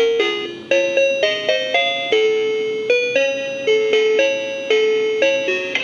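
Toy megaphone's built-in electronic tune: a simple melody played one note at a time, each note starting sharply and fading, about two to three notes a second.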